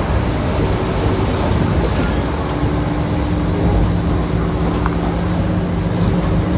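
Heavy diesel earthmoving machine running steadily under load: an even engine drone over a constant rough rumble.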